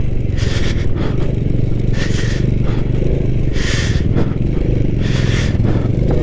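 Motorcycle engine running steadily under way, with hissing rushes of wind noise coming roughly every one and a half seconds.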